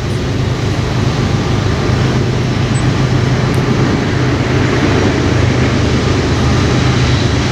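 A train passing close by: a loud, steady rumble with a low hum underneath and the rush of rolling wheels, keeping an even level throughout.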